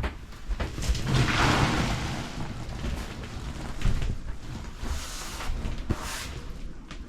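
Scattered knocks and bumps over a low rumble, with a loud rushing rustle about a second in that lasts a second or so. This is handling noise as things are moved about.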